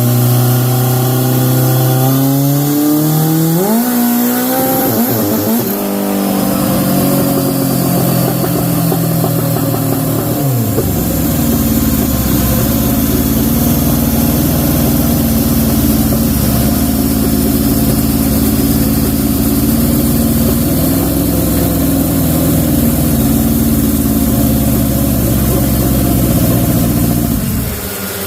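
Turbocharged Honda CB750 SOHC inline-four revving hard on a dyno under full boost: the engine note climbs, then holds high and steady for most of the run before dropping away near the end. The clutch slips under the load, so the engine holds its revs.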